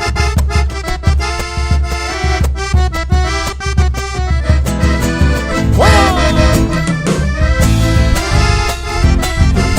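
Live folk band playing an instrumental passage of a chacarera, accordion leading over a steady drum beat, with a single shouted "¡Bueno!" about six seconds in.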